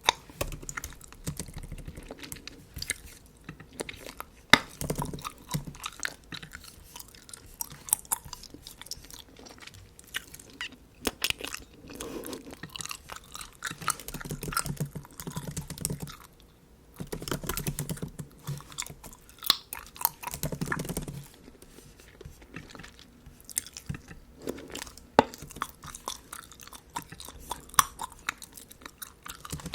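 Bubble gum chewed close to the microphone: irregular wet smacks and sharp mouth clicks.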